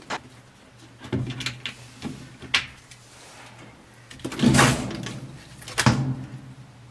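Knocks and clunks of parts being handled as the pump is worked out of a washing machine: several short sharp knocks, a louder, longer clatter about four and a half seconds in, and another loud knock about a second later.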